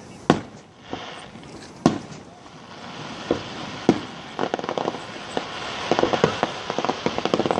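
Fireworks finale: three loud aerial shell bursts about two seconds apart, then from about four seconds in a dense run of rapid pops and crackle.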